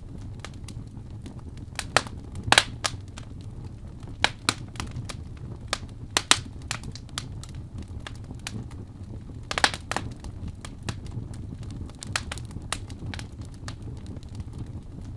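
Wood fire crackling in a fireplace: irregular sharp pops and snaps over a steady low rumble of the flames, with the loudest pops about two and a half seconds in and near ten seconds.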